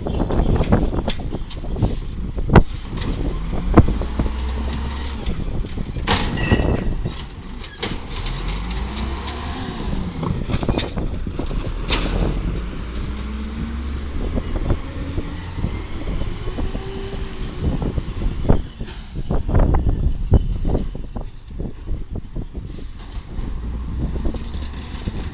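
Garbage truck's Volvo VED7 diesel engine running, its pitch rising and falling as it revs up and down, with repeated metal clanks and bangs throughout.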